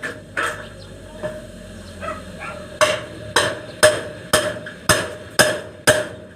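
Hammer blows in a carpentry job, a steady run of about two strikes a second that begins a little under halfway through.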